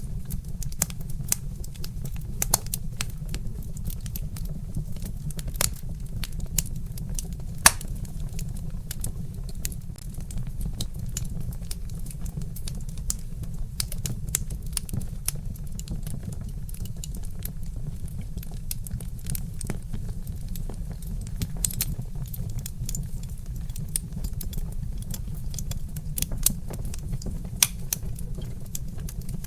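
Log fire crackling, with frequent irregular pops and snaps over a steady low rumble; one sharper pop about eight seconds in.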